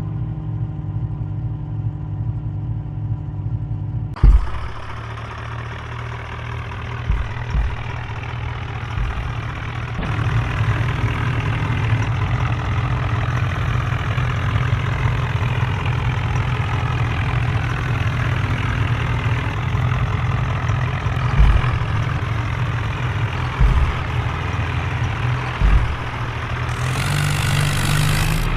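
Tractor engine running steadily, with a few short thumps along the way.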